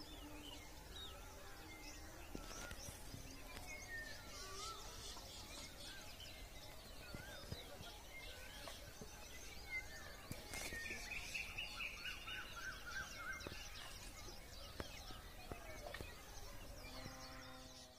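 Several small birds chirping and warbling faintly, with a longer run of song in the middle, over a steady low outdoor background hum.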